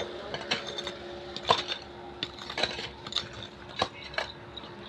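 Irregular sharp metallic clinks and scrapes of hand tools at work, about a dozen scattered through, over a faint steady hum.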